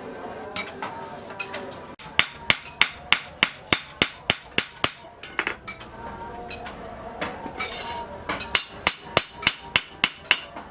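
Blacksmith's hammer striking hot steel on an anvil while forging a cleaver blade. There are two runs of rapid, evenly spaced blows, about three a second, each with a short metallic ring, and a few scattered strikes at the start.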